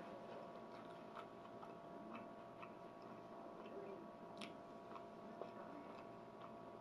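Faint close-up chewing of a mouthful of plant-based burger, with scattered small wet mouth clicks and one sharper click about four and a half seconds in, then a bite into the soft bun near the end. A faint steady hum lies underneath.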